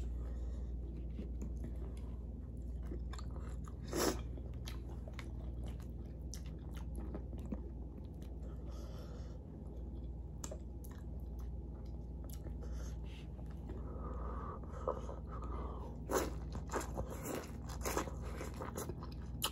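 Close-up chewing and biting of seafood boil food, with scattered sharp crunches and smacks; one stronger snap about four seconds in and a cluster of bites near the end as corn on the cob is bitten into.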